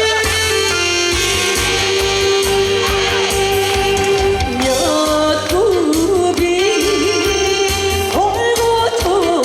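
A woman singing a trot song over backing music with a steady beat. She holds one long note for the first half, then sings a phrase with bending, ornamented turns.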